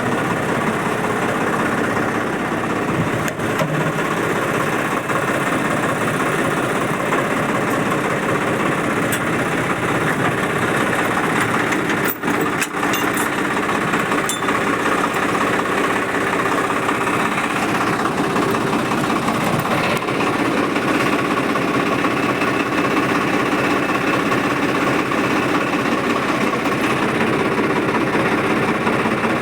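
Swaraj 855 tractor's diesel engine running steadily, with a couple of sharp clicks about twelve seconds in.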